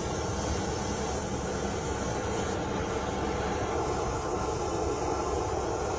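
Oxy-fuel cutting torch flame running with the oxygen on, a steady rushing hiss that holds even throughout.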